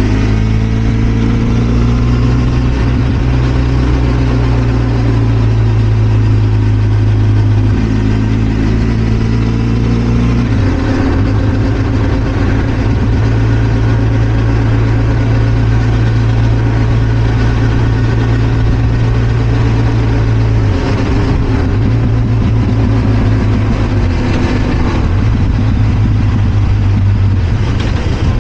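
Benelli TRK 502 X's parallel-twin engine running steadily under way, its note stepping to a new pitch a few times, about a third of the way in and again past two-thirds.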